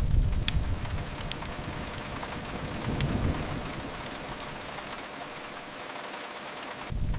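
Steady rain against a window, with sharp crackles and pops from a wood fire scattered through it. A low rumble is strong at the start, fades, swells briefly about three seconds in and returns suddenly near the end.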